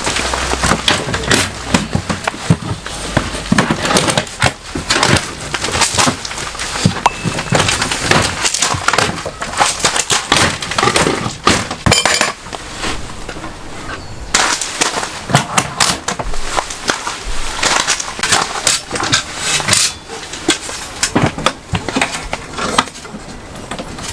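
Dense, irregular knocking and clattering: many sharp hits in quick succession, with a few louder ones standing out.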